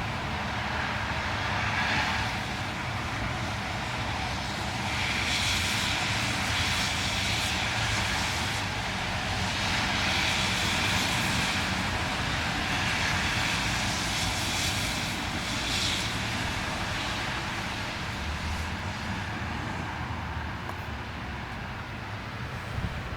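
Street ambience in a blizzard: a steady low rumble under an even hiss that swells twice, for several seconds each time, then eases off toward the end.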